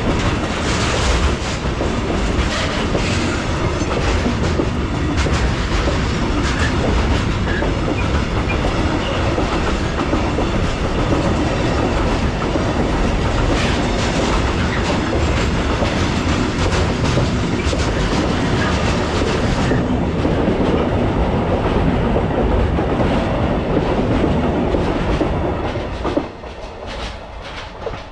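Freight train passing close by, its wagons rolling over the rails with a steady rumble and the clickety-clack of wheels crossing rail joints. The noise drops off sharply near the end as the last wagon goes by.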